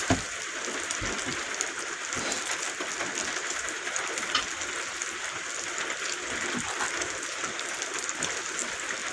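Bacon sizzling on a griddle over a camp stove, a steady crackling hiss with scattered small pops, and a couple of low knocks right at the start.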